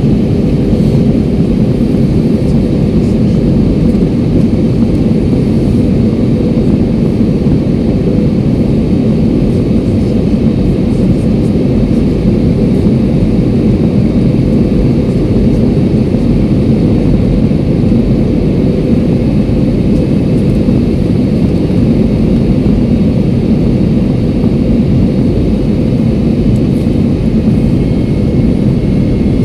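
Steady low rumble of a jet airliner's cabin in flight, engine and airflow noise with a faint steady hum on top.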